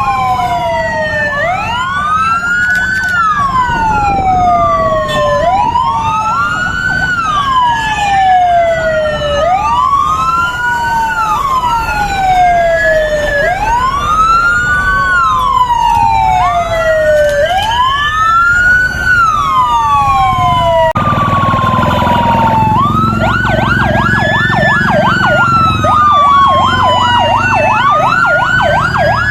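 Two vehicle sirens wailing at once, each rising and falling in pitch every few seconds, out of step with each other. About three quarters of the way through comes a short harsh blast, and one siren switches to a fast yelp while the other keeps wailing.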